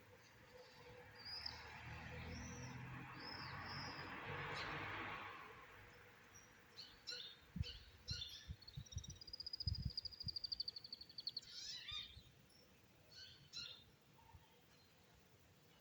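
Small birds chirping in short scattered notes, with one rapid, even trill lasting about two seconds past the middle. A broad rushing noise swells and fades over the first few seconds, and a few soft low thumps come just before the trill.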